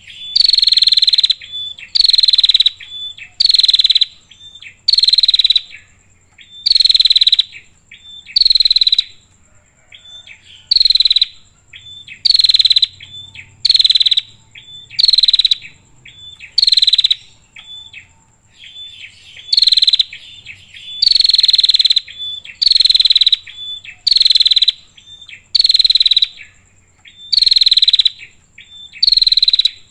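Female prenjak (prinia) calling: loud high call bursts repeated about once a second, each about half a second long, with fainter short notes in between.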